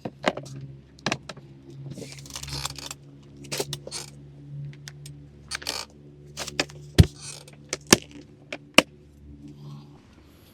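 Camp gear being handled: a string of sharp clinks and knocks with rustling between them, the loudest clinks coming late on. Underneath runs a steady low hum that stops shortly before the end.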